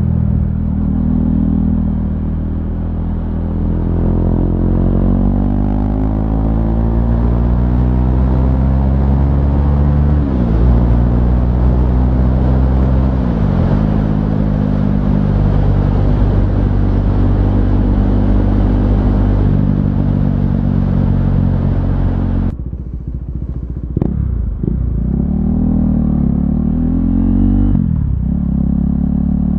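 2017 KTM Duke 390's single-cylinder engine through a loud aftermarket SC Project exhaust, under way: the revs climb and drop sharply at two gear changes, then hold steady. Near the end it slows, with several quick rev dips and blips as it downshifts.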